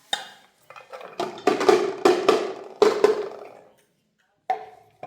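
A rapid series of knocks and clatters, each with a short ringing tone: one near the start, a cluster of about seven over two seconds, and a last one near the end.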